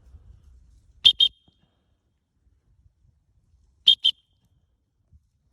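Dog-training whistle blown in two double toots, about a second in and again about four seconds in, each a pair of short, shrill pips: whistle commands to a retriever out on a blind retrieve.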